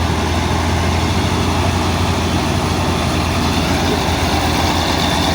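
Heavy truck's diesel engine running steadily with a deep, even low hum.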